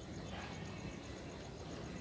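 Faint outdoor background between ashy drongo calls: an insect chirping steadily at a high pitch, about six pulses a second, with a faint brief sound about half a second in.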